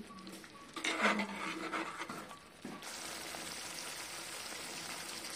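Steel spoon stirring and scraping a thick masala in a steel kadai. From about three seconds in, the masala sizzles steadily as it fries in its oil.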